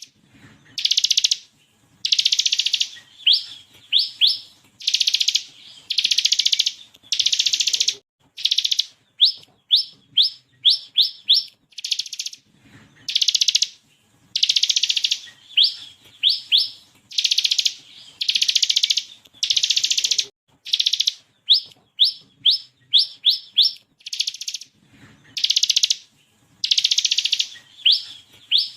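Bar-winged prinia (ciblek kristal) singing in its 'ngebren' style: dense buzzy trill phrases about half a second to a second long, alternating with quick runs of three to five sharp upward-sweeping 'shot' notes, repeating again and again.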